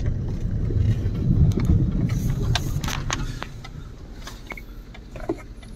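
Low rumble of a vehicle engine running, with scattered clicks and knocks, growing quieter in the second half.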